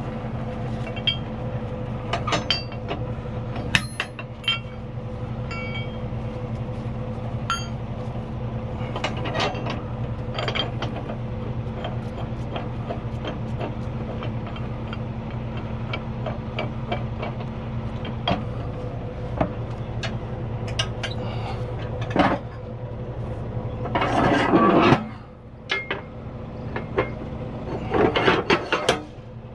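Steel rigging hardware, shackles and a master link, clinking and clanking in scattered sharp knocks as it is handled, over a steady idling truck engine hum. Two louder clattering handling noises come near the end.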